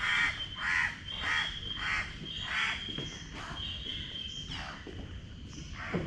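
A bird calling over and over, short calls about one every half-second, loudest at the start and weaker later. A steady high-pitched whine runs alongside and stops about four and a half seconds in.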